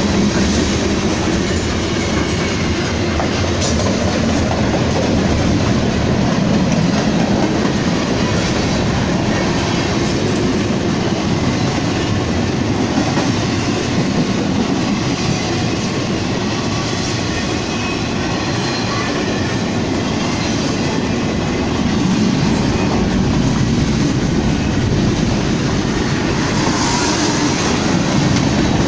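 A train's rail cars rolling past on the tracks: a steady loud rumble of wheels on rail that swells and eases slowly.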